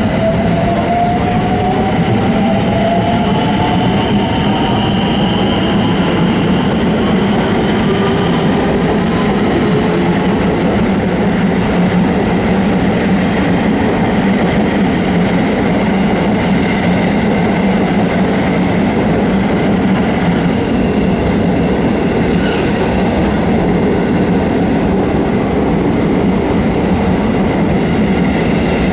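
JR West 223-series electric multiple unit pulling away and accelerating, its traction motor whine rising steadily in pitch over the first several seconds and then levelling off, over steady wheel-on-rail rumble.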